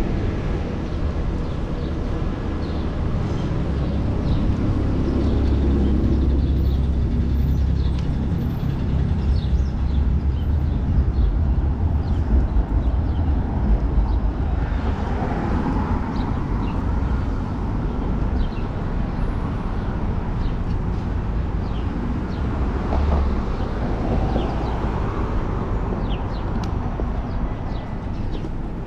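City street traffic heard from a moving bicycle, under a heavy low rumble of wind on the microphone. Twice, around the middle and again later, an engine's pitch rises and falls as a vehicle passes.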